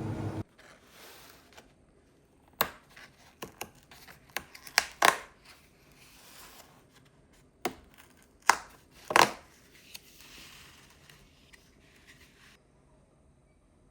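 Irregular light taps, clicks and knocks of small objects being handled, with faint rustling between them. They come singly and in quick little clusters, the loudest near the middle and about two-thirds of the way through.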